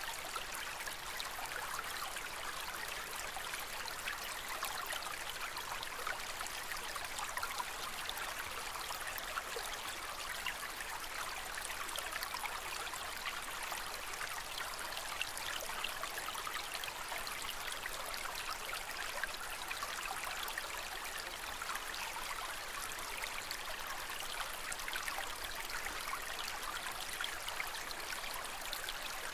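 Aquarium water trickling steadily, with a continuous fine patter of small splashes.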